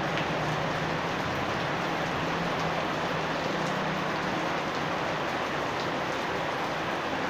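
Steady rain falling, an even unbroken hiss, with a faint low hum underneath that fades out about halfway through.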